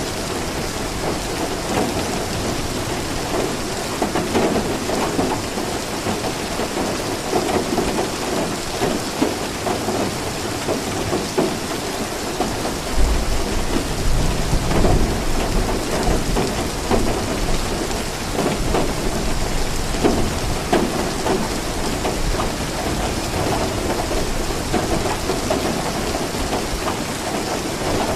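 Steady rainfall, a dense even hiss of drops on surfaces, with a low rumble swelling up about halfway through.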